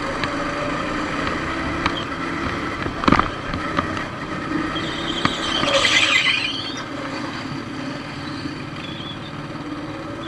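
Motorcycle engine running steadily, with a sharp knock about three seconds in and a brief high hissing burst around six seconds in.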